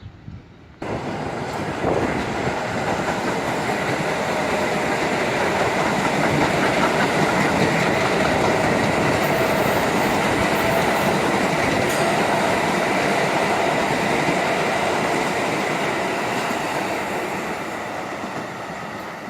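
New York City subway train running on the track, with wheel and rail clatter and a steady hum. It starts abruptly about a second in and fades slightly near the end.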